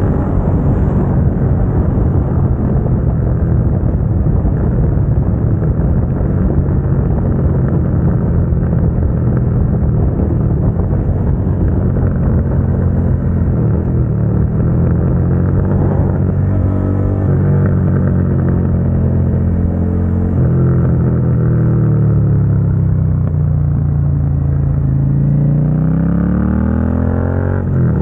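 Suzuki SV650's 645 cc V-twin running through a Dominator GP aftermarket exhaust while riding, over some wind rush. The engine note holds fairly steady, drops as the throttle is eased about three-quarters through, then rises steeply as the bike accelerates near the end.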